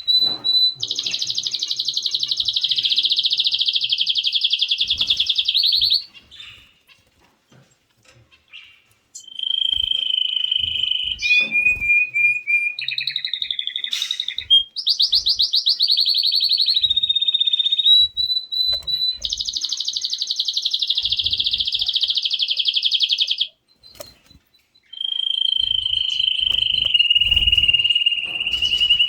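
Canary singing: long, fast trills and rolls, each held for several seconds, with two short pauses.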